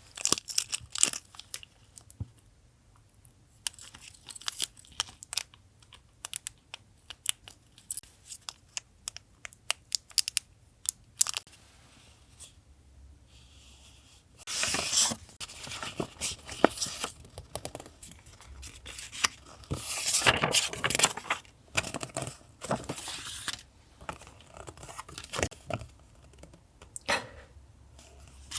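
Paper gift packaging being handled and torn open by hand: crackling rustles and sharp ticks, with longer, louder tears about halfway through and again about two-thirds of the way in.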